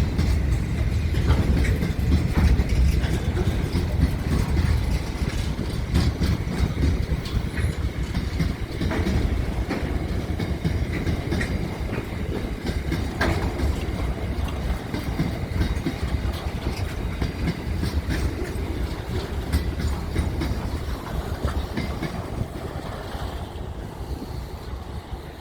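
Train running along the rails: a continuous rumble with repeated clicks of wheels over rail joints, easing off slightly near the end.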